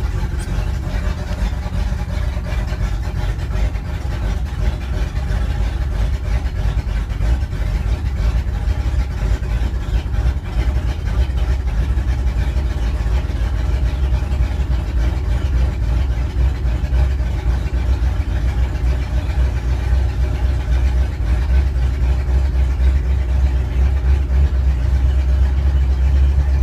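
1989 Four Winns Sundowner's engine running steadily while warming up after a cold start, out of the water on flushing muffs, so the exhaust is really loud. It is a continuous deep rumble that grows a little louder near the end.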